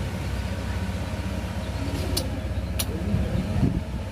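An engine running steadily at idle, with two sharp clicks a little past halfway.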